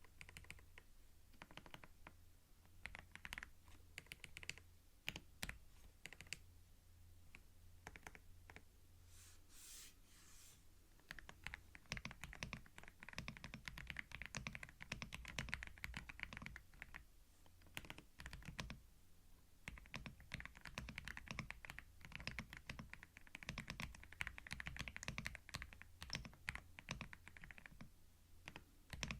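Typing on a computer keyboard, recorded close with a binaural microphone: runs of quick key clicks, growing busier about halfway through.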